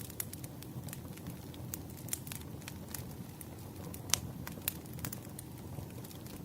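Firewood burning: irregular crackles and sharp pops over a low steady rumble of the fire, with the loudest pop about four seconds in.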